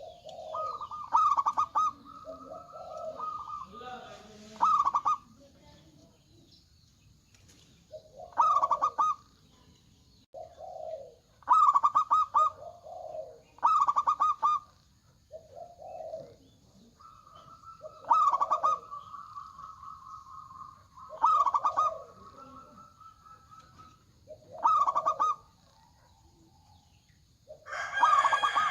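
Zebra doves (perkutut) cooing: repeated phrases of a short low note followed by a higher, rolling trilled coo, every few seconds. Near the end a rooster begins to crow.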